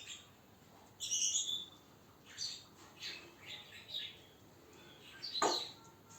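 African grey parrot making a string of short, high chirps and whistles, about half a dozen with gaps between them; the loudest comes near the end.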